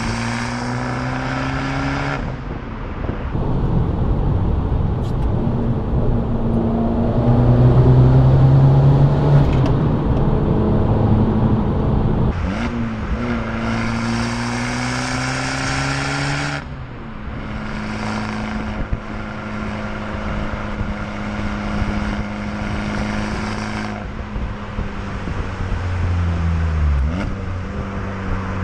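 Abarth 595 Competizione's turbocharged 1.4-litre four-cylinder engine and exhaust pulling through the revs, the engine note rising in pitch again and again. It comes as a run of short segments with abrupt changes between them.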